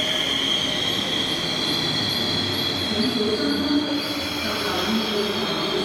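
MTR East Rail Line electric train pulling into the platform, its cars rumbling past with a steady high-pitched wheel squeal.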